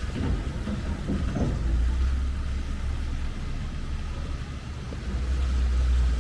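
Downtown street traffic rumbling low and steady, growing louder about five seconds in as a vehicle draws near.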